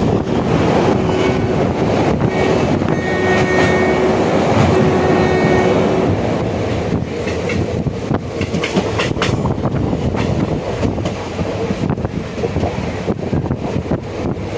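Passenger train running along the line, heard from on board: a steady rumble of wheels on rail with irregular clicks and clatter over the track.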